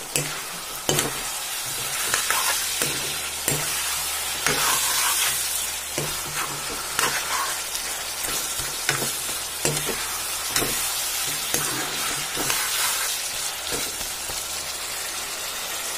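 Kadaknath chicken curry sizzling as it fries in a pan, stirred with a metal spatula that scrapes and clicks against the pan about once a second.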